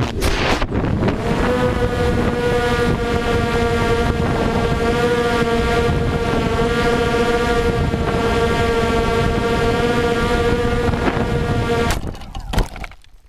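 Quadcopter drone's propellers humming with a steady pitched whine that sets in about a second in, over heavy wind noise on the microphone; the hum cuts off near the end.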